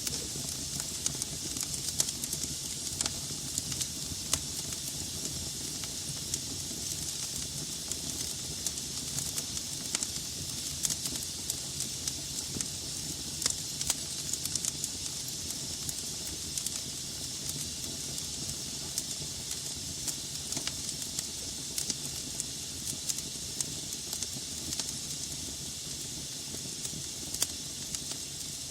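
Wood logs burning in a fireplace: a steady hiss of flames with frequent sharp crackles and pops at irregular intervals.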